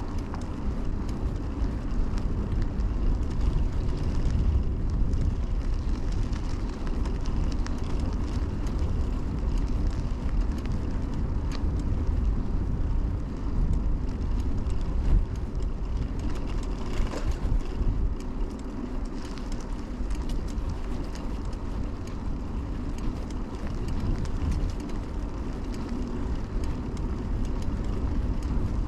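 Steady low wind rumble and tyre noise from a 2000 Kona Blast bicycle being ridden on the road, with a brief higher-pitched sound about seventeen seconds in.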